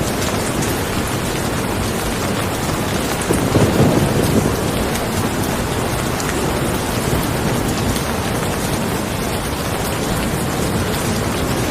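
Steady rain falling, a dense even hiss of drops. About three seconds in, a brief low rumble swells over it for about a second.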